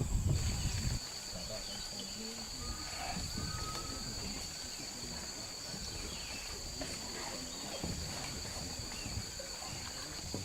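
Steady chorus of rainforest insects, two continuous high-pitched buzzing drones at different pitches, with a low rumble in the first second.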